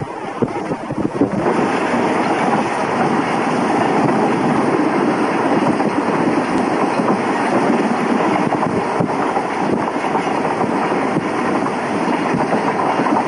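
Train running at speed, heard from inside a carriage at the window: a steady rumble of wheels on rails mixed with air noise, which grows louder and steadier about a second and a half in.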